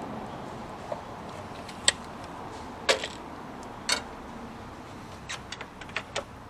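Four sharp knocks about a second apart, then a quick run of lighter clicks, over a steady low hiss.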